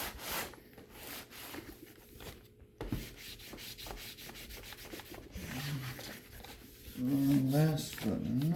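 Repeated rubbing strokes of hand-cleaning the laptop's casing, wiping or scrubbing it by hand. Near the end, a louder pitched sound that wavers up and down for about a second and a half.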